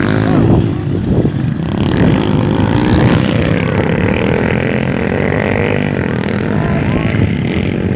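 Motocross dirt bike engines revving as riders go past, with the engine note rising and falling.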